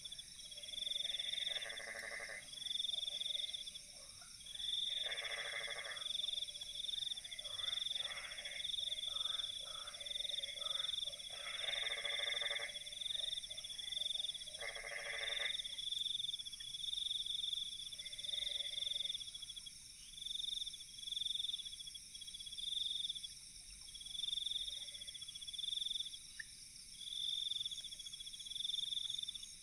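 Night insect chorus: a steady high buzz with a pulsing chirp repeating about twice a second throughout. Over it come about six animal calls, each lasting about a second, mostly in the first half.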